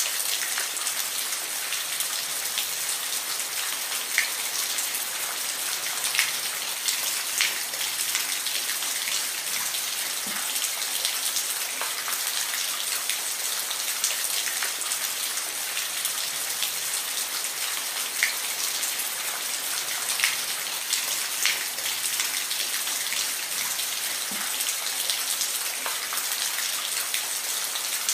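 Steady rain with a hiss, single drops ticking sharply now and then as they hit a surface.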